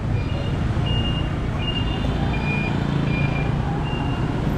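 Street traffic: a steady low engine rumble with a scatter of short, high-pitched beeps at irregular intervals.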